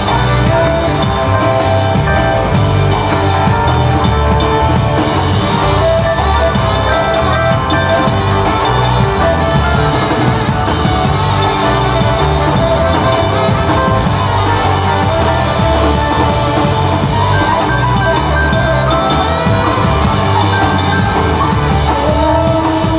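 Live band playing rock music on drum kit and guitar, with no singing.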